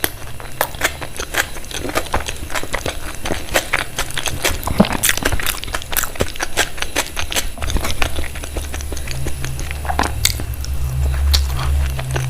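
Close-miked chewing and biting of food: a dense run of small clicks and crunches. A low rumble sits under it for the last few seconds.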